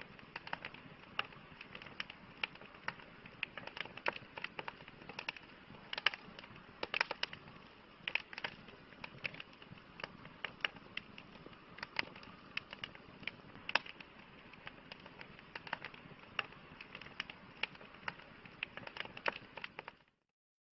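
Campfire crackling: burning wood giving off irregular sharp pops, several a second, over a soft steady hiss. It cuts off suddenly near the end.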